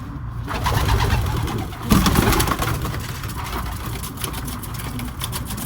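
Homing pigeons in a loft, a flurry of wing flapping and scuffling with some cooing, as birds are caught by hand to read their leg bands. The flapping gets louder just before two seconds in.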